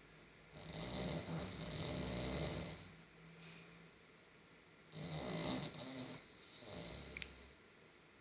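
Sleeping pug snoring: one long snore, then two shorter ones a few seconds later, with a thin high whistle through the first two. A single short click sounds near the end of the last snore.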